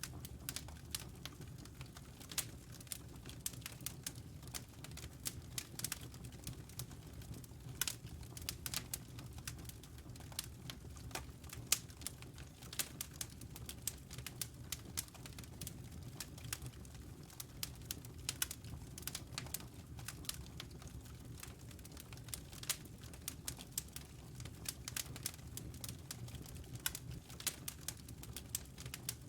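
Wood fire in a fireplace crackling: sharp irregular pops and snaps of burning logs over a steady low rumble of the flames.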